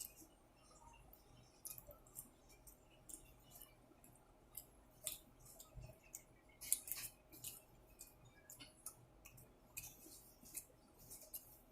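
Faint, irregular sharp clicks and small crunches of someone eating close to the microphone, with a louder cluster about seven seconds in.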